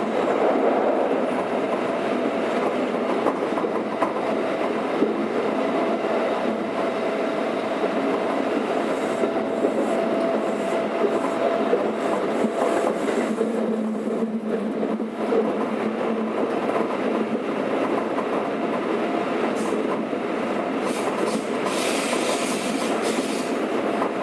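Keikyu 600 series electric train heard from inside the car while running at speed: steady wheel-and-rail rumble with clickety-clack over the joints. A faint steady whine from the Toyo VVVF-driven traction motors sits under it, lower in pitch from about halfway through.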